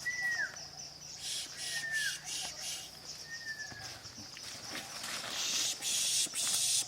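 A bird gives three short, clear whistles, each sliding downward, about a second and a half apart. In the second half a high hiss swells up and becomes the loudest sound.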